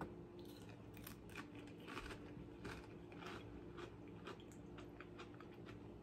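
A potato chip topped with baked beans being bitten and chewed: a string of faint, crisp crunches, several a second.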